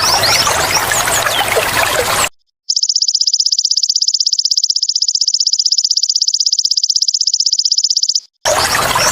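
Trickling water, then a brief silence, then a belalang emas (golden grasshopper) call alone for about five and a half seconds: a high, rapidly pulsed buzzing trill that stops abruptly, after which the trickling water resumes.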